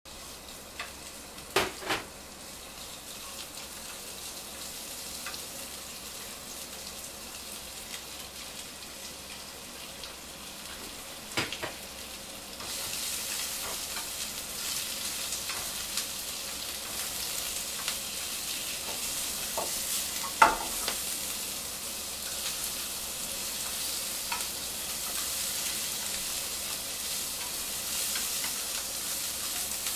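Meat, cabbage and onion sizzling in a frying pan as they are stir-fried with chopsticks. The sizzle grows louder about halfway through, and a few sharp knocks stand out, the loudest about two-thirds of the way in.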